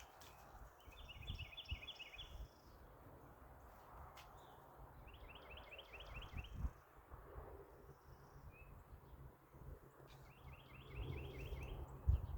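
A bird singing the same short phrase of quick high notes three times, a few seconds apart, over a faint low rumble.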